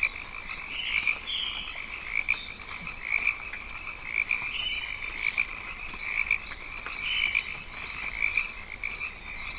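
Chorus of rainforest frogs calling, with repeated pulsed croaks coming about once or twice a second. Short, higher chirps sound over the chorus.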